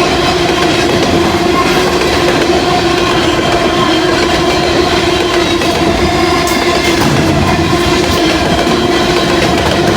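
Norfolk Southern mixed manifest freight train rolling past, its cars clattering on the rails, with a steady pitched tone held throughout.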